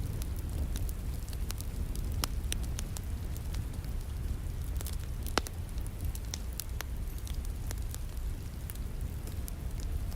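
Wood fire crackling and popping with many scattered sharp snaps, the loudest about two and five seconds in, over a steady rumble of rain.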